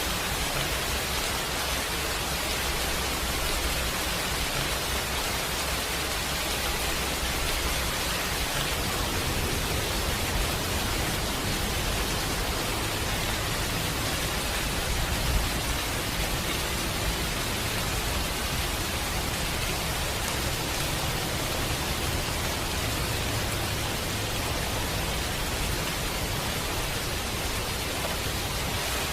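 Steady rain falling, an even hiss of rainfall, with a brief louder low thump about halfway through.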